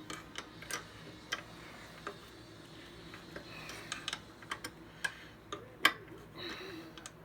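Irregular sharp metal clicks and taps of a hand tool working the blade-clamp screws on a thickness planer's cutterhead, the loudest click about six seconds in.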